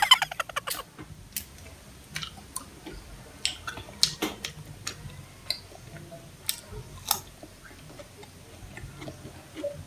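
Close-miked eating sounds: a person chewing, with lip smacks and scattered sharp mouth clicks. A brief hum sounds right at the start.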